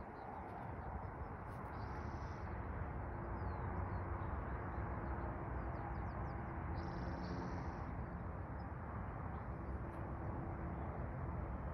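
A small songbird sings short, high trills twice, about five seconds apart, with a few thin chirps between, over a steady low rushing background noise.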